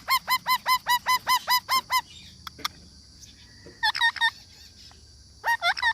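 A parrot calling in a rapid series of short, shrill notes, about five a second for the first two seconds, then two shorter bursts of three or four calls, one about four seconds in and one near the end.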